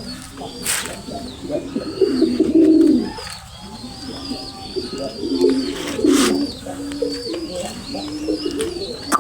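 Moyna thuti pigeons cooing in repeated low, throaty phrases, with a thin high chirping and a few sharp clicks in the background.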